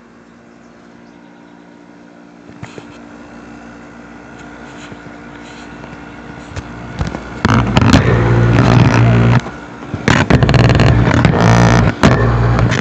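Hampton Bay window air conditioner running on its low fan setting, a steady quiet hum. From about seven seconds in a much louder, steady droning machine sound takes over, cutting out briefly twice.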